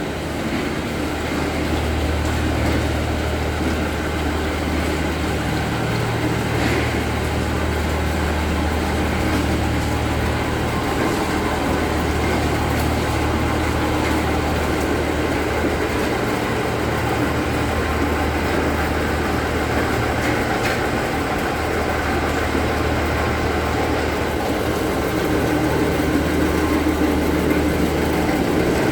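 Steady low mechanical hum and rumble from running machinery, unbroken and even in level.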